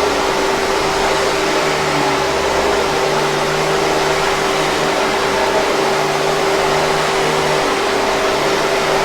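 Hoover 5000 Series canister vacuum cleaner running steadily, a constant rushing hiss with a high steady motor whine.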